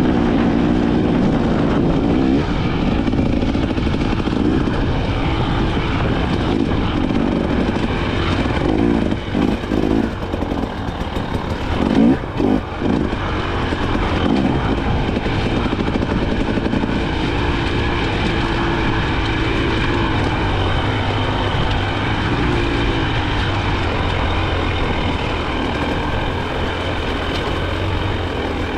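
KTM 300 XC-W's two-stroke single-cylinder engine running while being ridden, its revs rising and falling with the throttle, with a few quick throttle chops near the middle.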